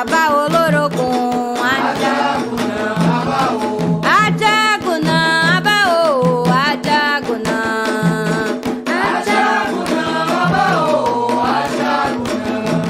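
Candomblé chant for Xangô: voices singing a melody with wavering pitch over steady hand drums and percussion.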